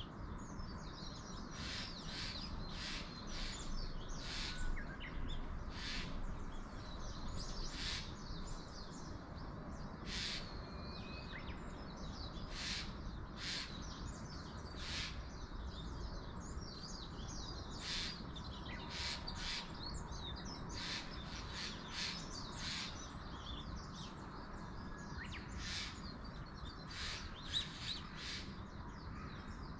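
Wild birds calling in mountain woodland: many short, high chirps repeating about once or twice a second, over a low, steady rumble of ambient wind.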